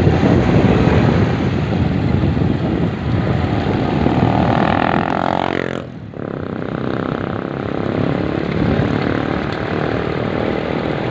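A motor vehicle engine running in a street over a steady rushing noise. It revs, rising in pitch, from about four seconds in until an abrupt cut near six seconds.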